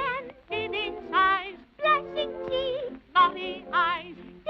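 Cartoon voices singing a song phrase with a heavy, wavering vibrato over orchestral accompaniment. The singing comes in short bursts of about half a second, split by brief pauses.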